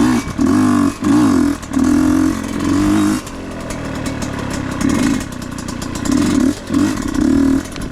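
Husqvarna dirt bike engine revving in short bursts as the throttle is opened and closed, about nine blips, with a quieter, lower-revving stretch midway.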